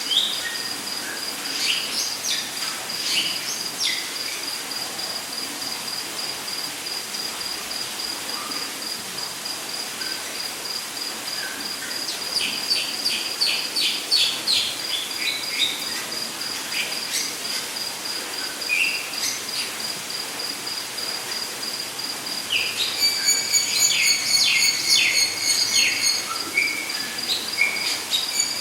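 Rainforest insects and birds: a steady, high, pulsing cricket-like trill, with birds chirping over it in quick runs of calls that grow busiest near the end.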